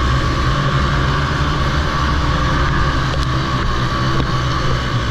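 Honda TRX90 youth quads' small single-cylinder four-stroke engines running in a race, a steady engine drone that holds at an even pitch and level.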